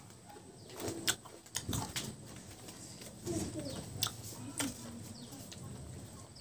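Close-up mukbang eating sounds: a man chewing mouthfuls of rice and mutton curry with bamboo shoots, with repeated sharp wet lip smacks and clicks and a few short low sounds from his mouth.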